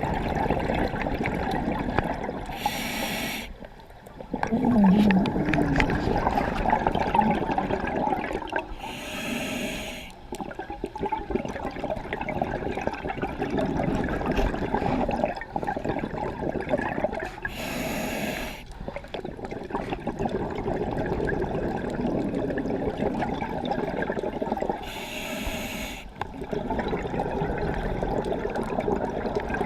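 A scuba diver breathing underwater through a regulator. Four short hissing inhalations come about every seven to eight seconds, each followed by a long exhalation of gurgling, rumbling bubbles.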